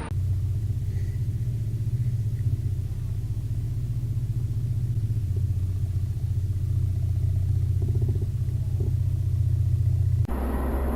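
Steady low rumble of a vehicle on the move, engine and road noise, that cuts off abruptly near the end as a different, hissier road recording takes over.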